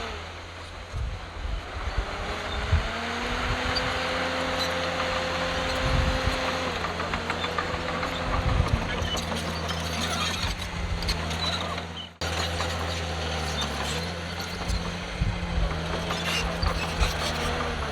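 Heavy diesel engine of a Komatsu D51PX bulldozer working under load, its pitch rising and falling as it revs, over a steady low drone with frequent clanks and rattles. The sound cuts out abruptly about twelve seconds in and picks straight back up.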